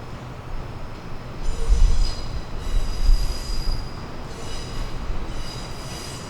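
Train's steel wheels squealing on the rails in high tones that come and go, over a low rumble that swells about two and three seconds in.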